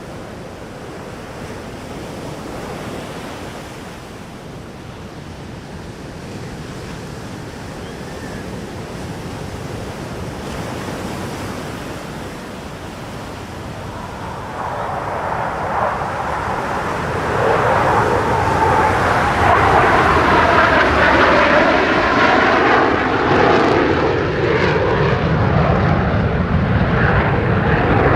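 Fighter jet engine noise, steady and moderate at first, then swelling from about halfway through as the jet closes in and staying loud, with a tone sliding down in pitch as it passes.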